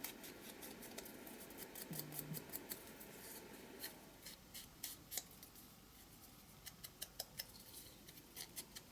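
Scissors cutting a strip of printed paper: a scatter of quick, light snips and clicks, some in close runs.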